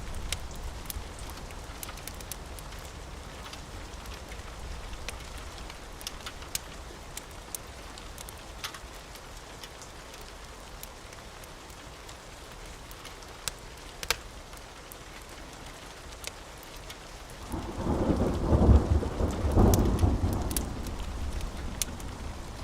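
Steady rain with scattered sharp crackles from a wood fire, and about three-quarters of the way through a long rumble of thunder that swells twice, the loudest sound.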